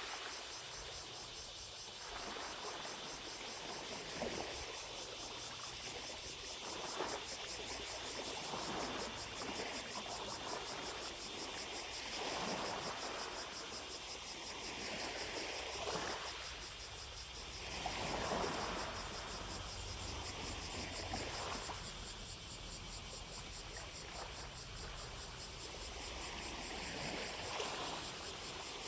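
Small lake waves lapping at the shore every second or two, over a steady, rapidly pulsing drone of distant cicadas.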